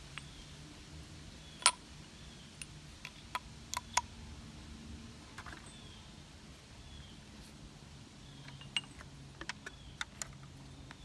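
Scattered light clicks and taps, a sharper one about one and a half seconds in, over a faint low hum.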